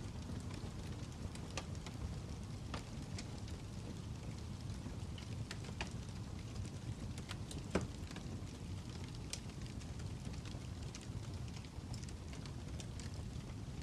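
Fire crackling: irregular sharp pops and snaps over a steady low rumble, with one louder pop about eight seconds in.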